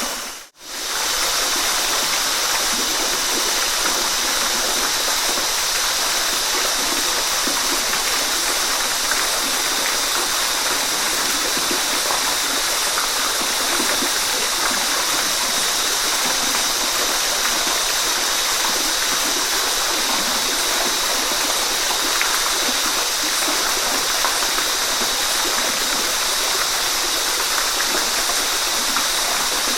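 Waterfall: a steady rush of falling water. It dips briefly to near silence about half a second in, then resumes unchanged.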